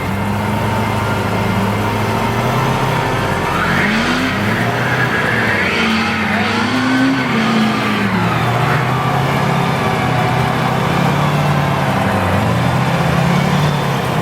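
Chevy Duramax diesel engine of a mud truck revving up and easing off several times while it works through the mud.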